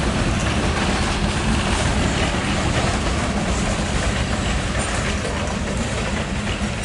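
Freight cars of a Maryland Midland train rolling past: a steady rumble of steel wheels on rail, with faint clicking.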